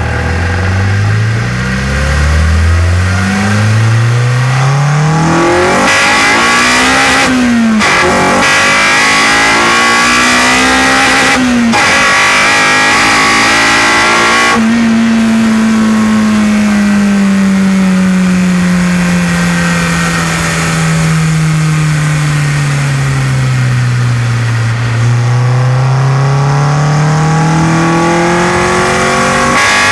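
Honda Civic Type R EP3's 2.0-litre four-cylinder VTEC engine pulling hard through the gears through a baffled exhaust. The revs climb high and drop sharply at upshifts about 7.5 and 11.5 seconds in, then wind down slowly for about ten seconds and rise again near the end.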